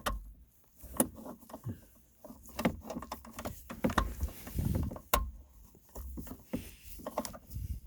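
Scattered clicks and knocks of hands and metal parts while a shifter mounting bolt is started by hand, with some low rubbing and handling noise around the middle.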